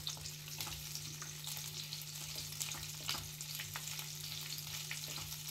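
Capsicum pieces sizzling in hot oil in a kadhai, being sautéed and stirred with a wooden spatula that clicks and scrapes against the pan.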